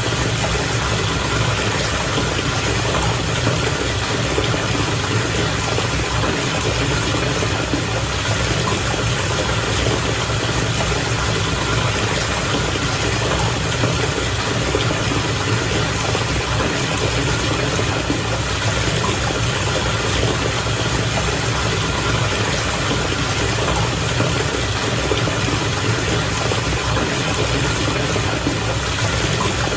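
Bath water bubbling steadily, a dense even rush with a low hum underneath.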